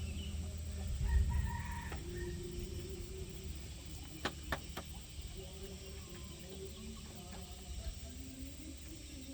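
A rooster crowing once, about a second in, with a few sharp clicks near the middle over a steady low rumble.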